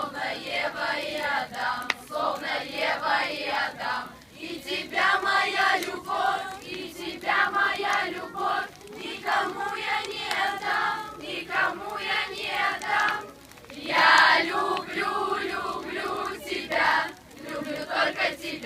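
A group of children singing a camp song together in chorus, phrase after phrase with short breaks for breath.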